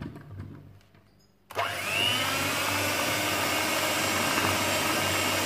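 Electric kitchen mixer switched on about a second and a half in, its motor whining up to speed and then running steadily as it beats flour into a lemon muffin batter.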